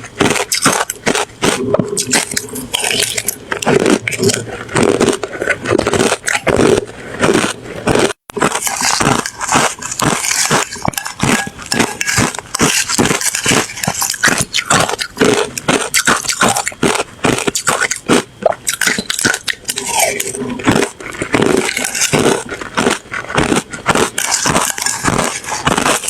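Ice being bitten and chewed close to the microphone: a fast, continuous run of loud crunches and crackles, with a brief break about eight seconds in.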